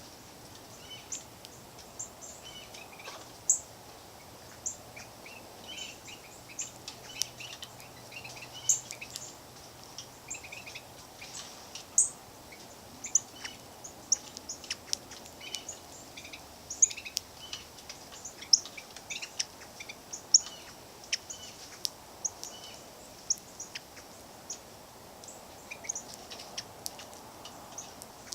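Songbirds giving many short, high chirps and chip notes at irregular intervals, with sharp ticks among them.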